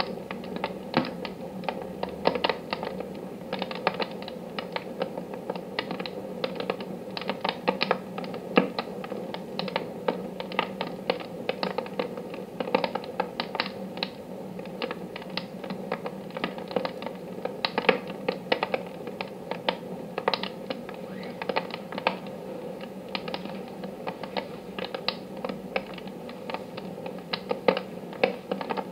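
Wood fire in a wood-burning stove crackling: irregular sharp snaps and pops, several a second, over a steady low background.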